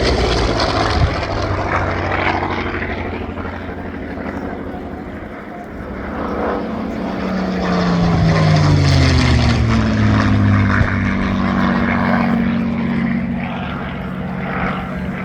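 World War Two piston-engine fighters flying past low. The propeller and engine note drops in pitch as each one goes by, with the loudest pass about eight to ten seconds in.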